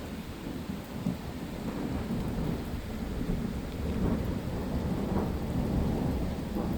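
Low rolling thunder that swells over several seconds, over steady rain.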